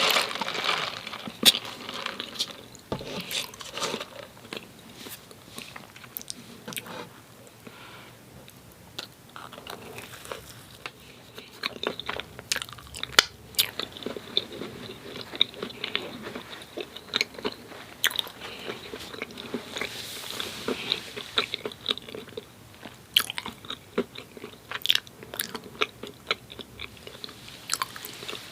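Close-miked chewing of a soft Krispy Kreme doughnut: wet mouth sounds with many small, irregular clicks and smacks.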